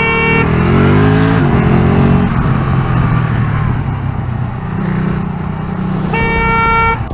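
A held vehicle horn cuts off about half a second in, and an engine revs up with rising pitch, then runs on steadily. The horn blares again for about a second near the end.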